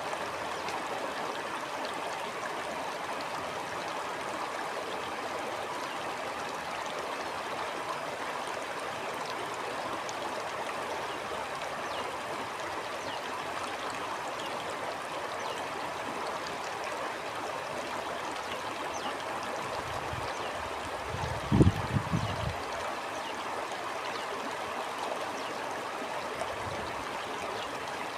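Stream water flowing and gurgling steadily. About three quarters of the way through, a brief cluster of low thumps or rumbles, the loudest moment, rises over the water for about a second.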